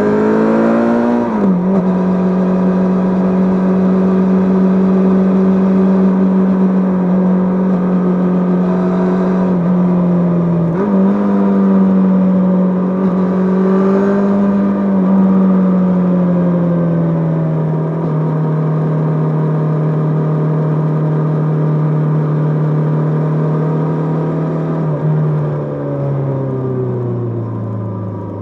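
Kawasaki GPZ550's inline-four engine riding along: revs climb briefly and drop sharply with an upshift about a second in, then hold steady at cruising speed with a quick dip and recovery about ten seconds in. From the middle on the revs ease down in steps, falling further near the end as the bike slows.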